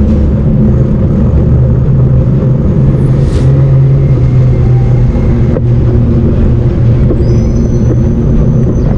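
Loud, steady low rumble while riding a fat-tire bike: the tyres humming on the pavement, mixed with wind on the microphone. A few faint high tones come in near the end.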